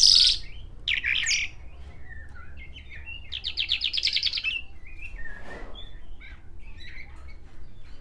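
Branjangan (Javan bush lark) singing: loud high chirped phrases at the start and again about a second in, then a fast trill of rapidly repeated notes about three and a half seconds in, followed by softer scattered chirps and whistles.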